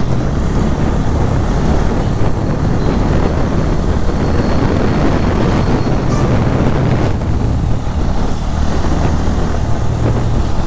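Bajaj Pulsar N160's single-cylinder engine and exhaust running steadily while the motorcycle is ridden, with wind noise on the microphone.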